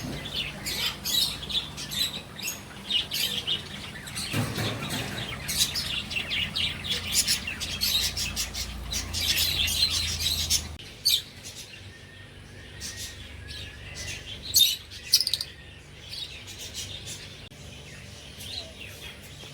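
A flock of caged lovebirds chirping and chattering, many short high calls overlapping. The chatter is dense at first and thins out about halfway through.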